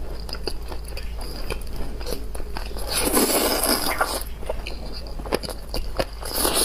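Close-miked eating sounds of a person eating egg and noodles: chewing with many small wet clicks, and a louder noisy stretch about three seconds in and again near the end.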